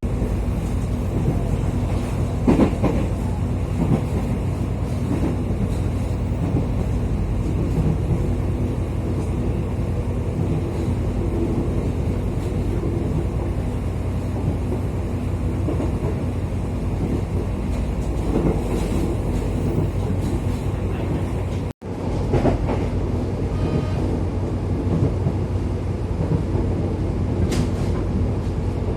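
Airport train running along the line: a steady low rumble of wheels and running gear, with a few light knocks. The sound cuts out for an instant about three-quarters of the way through.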